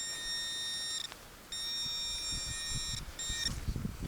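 Metal detector pinpointer giving a steady high electronic tone in three stretches: about a second, a short gap, about a second and a half, then a brief blip. It is sounding on a buried piece of tin. Low scraping and rustling from handling the soil joins in during the second half.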